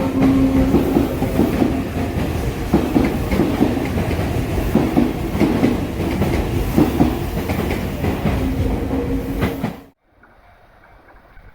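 N-gauge model train running on its track, wheels clattering over the rail joints with a steady motor hum. It cuts off abruptly near the end, leaving a much quieter running sound that slowly grows.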